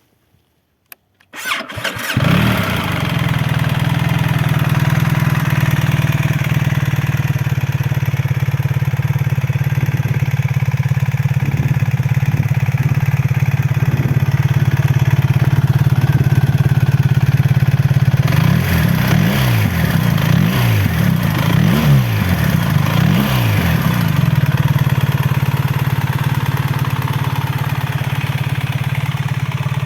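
BMW R1300GS boxer-twin engine, stock exhaust, starting about a second and a half in and settling into a steady idle. Past the middle it is revved four times in quick succession, each rev rising and falling, then it idles again.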